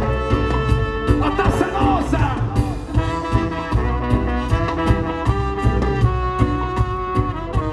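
Live band playing an instrumental passage with a horn section over a steady drum beat and bass.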